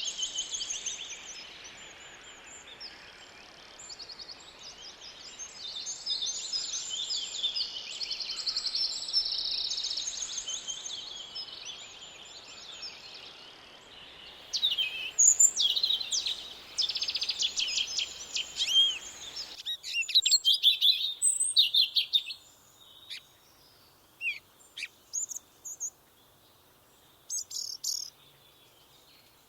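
Songbirds singing: fast, high trills overlapping densely over a steady background hiss, then after an abrupt change about two-thirds of the way in, scattered short chirps and calls against a quieter background.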